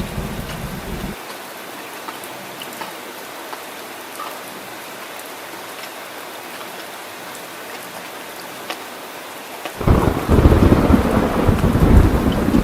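Steady rain falling, with a low thunder rumble that stops about a second in. About ten seconds in, a loud peal of thunder breaks in suddenly and rolls on.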